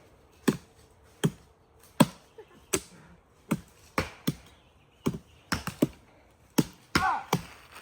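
Axe chopping into a tree: a string of sharp, single chops about every half second to second at an uneven pace, with a brief vocal sound near the end.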